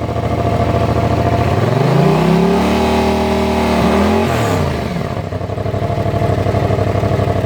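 Yamaha MT-07's parallel-twin engine, breathing through a drilled-out stock exhaust, idles, then is revved once. The revs rise from about a second and a half in, hold briefly, and drop back to idle about five seconds in.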